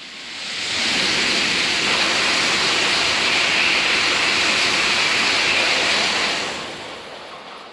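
Tokaido Shinkansen train passing at speed: a loud, steady rush that swells over about a second, holds for about five seconds, then fades away.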